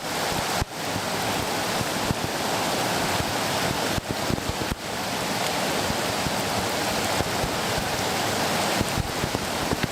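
River rapids rushing: a steady, dense sound of whitewater.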